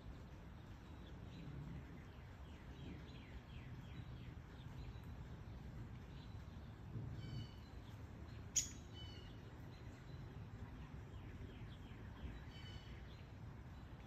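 Songbirds calling over a soft steady hiss of light rain: a run of quick chirps in the first few seconds, then short chirps repeated a few times later. One sharp click comes about halfway through.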